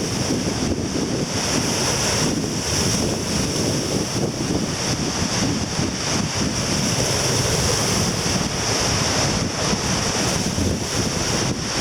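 Heavy surf breaking and washing up the beach, with strong wind buffeting the microphone.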